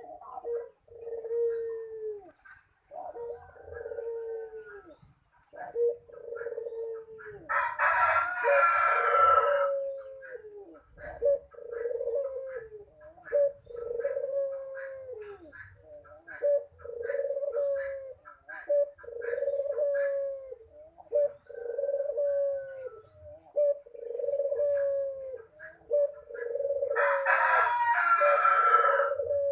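A puter (Barbary dove) cooing over and over, each coo about a second long and dropping slightly in pitch at the end. Twice, about eight seconds in and again near the end, a louder, harsher call of about two seconds cuts across the cooing.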